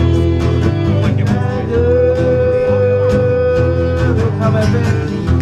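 Live blues music: guitar over a steady bass line and beat, with a long held note in the middle.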